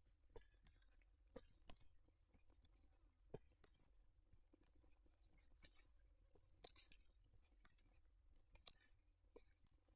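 Near silence with faint footsteps on the forest floor, short crunching steps at about one a second.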